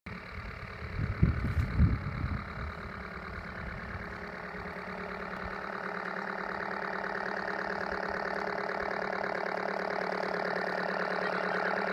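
Diesel engine sound generator on a half-size Toylander Land Rover Series 1 playing a simulated diesel engine at idle, a steady, rapidly pulsing engine note that grows gradually louder. A few low thumps about a second in.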